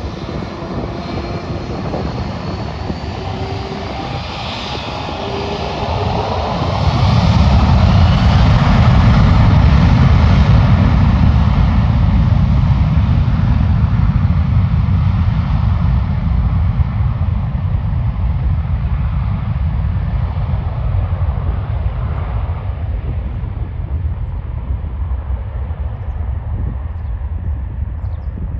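Turkish Airlines Airbus A330-300's twin GE CF6-80E1 turbofans at takeoff power: a rising whine builds for about six seconds, then a loud low rumble surges in and peaks, slowly fading as the jet climbs away.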